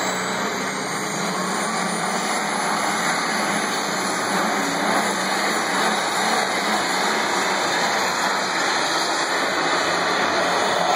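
Modified AGCO DT pulling tractor running hard under load down the pull track: a loud, steady engine noise, with a high whistle that rises in pitch over the first few seconds.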